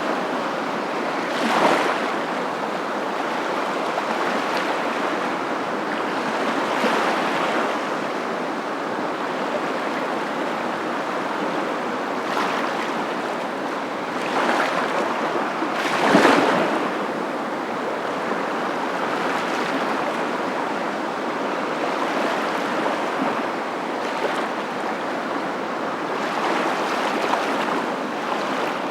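Steady rushing water with a few brief louder surges, the strongest about sixteen seconds in.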